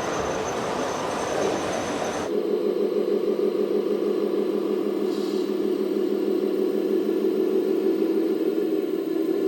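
A loud, even rushing noise that cuts off suddenly about two seconds in, followed by a steady mechanical hum with a fast fluttering texture, like a small motor running.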